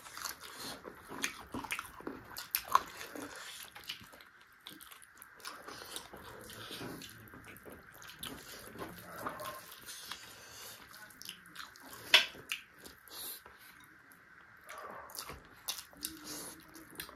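Chewing and gnawing on chicken feet: many irregular small clicks and crunches, with one sharper, louder click about twelve seconds in.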